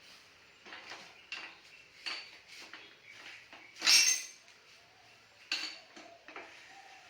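Metal tools and parts clinking and clanking against each other in a string of sharp knocks, the loudest one about four seconds in.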